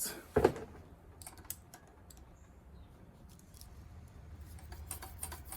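Scattered light clicks and taps of small metal tools at an open valve cover, during a valve clearance check with a feeler gauge on a Briggs & Stratton mower engine. A short, louder knock comes about half a second in.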